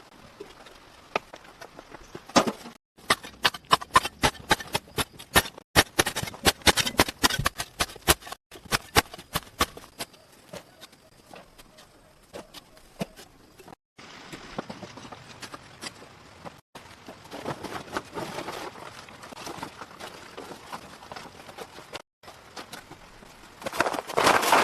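Rapid, irregular sharp knocks and clicks for several seconds, then softer rustling noise with scattered ticks. The sound drops out abruptly several times.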